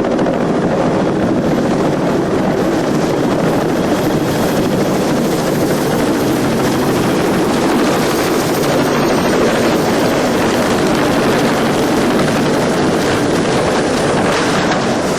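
A helicopter running steadily: engine and rotor noise, loud and even throughout.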